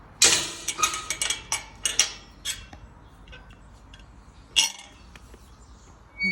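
A quick run of sharp clinks and clatters, like hard objects knocking together, over about the first two and a half seconds. One more sharp clink comes about four and a half seconds in.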